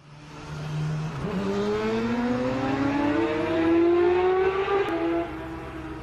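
Ferrari F8 Tributo's twin-turbo V8 accelerating, its exhaust note climbing steadily in pitch for about four seconds, then dropping back about five seconds in as the throttle comes off.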